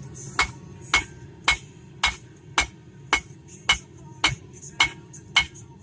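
Hand hammer striking a hot railroad spike on an anvil, about ten evenly spaced blows at roughly two a second, each with a short metallic ring: drawing out the steel for a spike knife.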